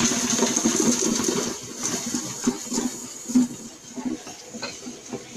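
A pot of popcorn kernels being shaken over a stove burner: a continuous rattling, scraping rush of kernels against the metal, with a steady high hiss, easing off toward the end. The kernels are still heating and not yet popping.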